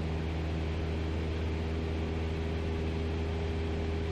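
Cessna's piston engine and propeller running steadily in cruise, heard from inside the cockpit as an even drone with a constant pitch.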